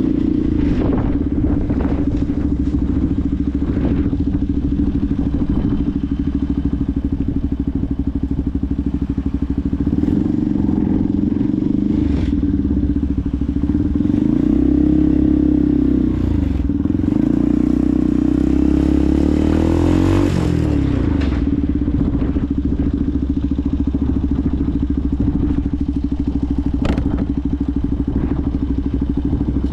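Benelli TNT 125's single-cylinder engine running while the bike is ridden, with low wind rumble on the microphone. The engine pitch rises and falls in the middle, and a few short knocks sound along the way.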